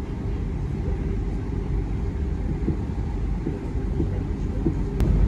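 Steady low rumble of a South Western Railway Class 444 Desiro electric multiple-unit train running along the line, heard from inside the passenger coach. There is a single faint click about five seconds in.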